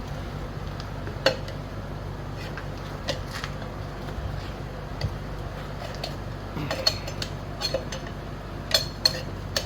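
Metal tools clinking and knocking against a scooter's steel wheel rim as the tire is worked off it: scattered sharp clinks, one about a second in and a quick cluster near the end, over a steady low hum.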